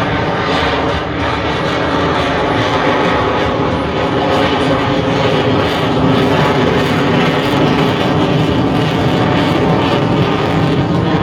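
F-22 Raptor fighter jet flying over the field: loud, steady jet engine noise that grows slightly louder about four seconds in.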